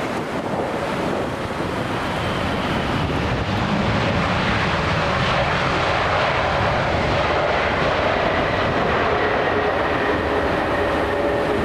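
Jet airliner's engines: a steady rumble with a thin high whine over it, growing louder over the first few seconds and then holding.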